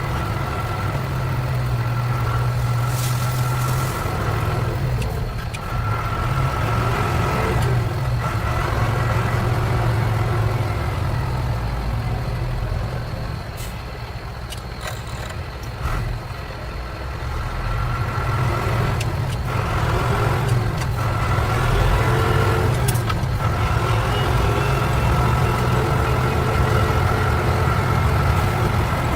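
Truck engine running steadily as the truck drives, with a few sharp clicks or knocks. It quietens a little about halfway through, then picks up again.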